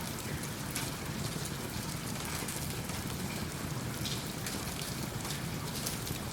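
Steady rain mixed with a crackling wood fire in a fireplace, with sharp ticks and pops scattered irregularly throughout.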